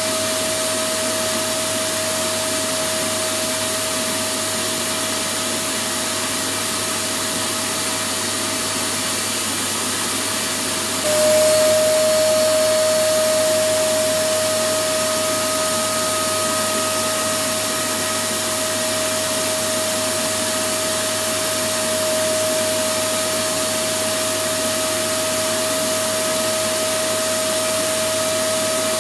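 Electric vacuum cleaner running steadily: an even rushing hiss with a high, constant motor whine. About eleven seconds in, the whine steps slightly lower in pitch and gets louder, then settles back over a few seconds.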